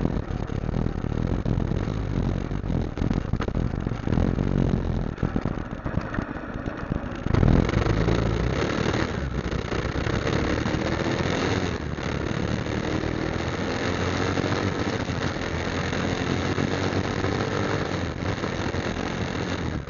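Motorcycle engine running while riding. About seven seconds in it gets louder, and then the engine note climbs steadily as the bike speeds up.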